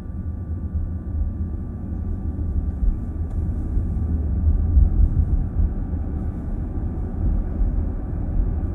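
Steady low road rumble and tyre noise heard inside a car's cabin while driving.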